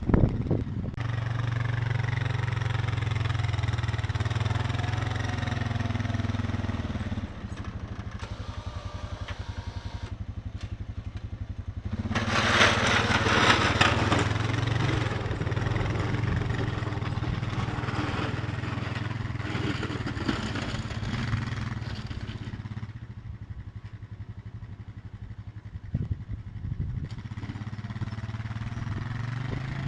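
An engine running steadily, its pitch shifting about seven seconds in, with a loud rushing noise over it from about twelve to fourteen seconds in.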